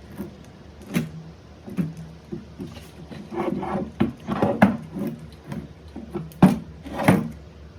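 A series of irregular knocks and clacks, about a dozen, each with a brief low ring, mixed with scraping and rubbing around the middle; the loudest knocks come near the end.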